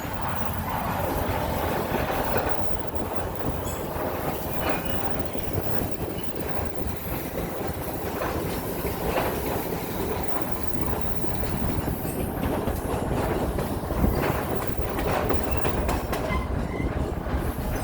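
Heritage passenger train rolling steadily along the track: a continuous rumble from the railroad car's wheels, with occasional clacks as they pass over rail joints.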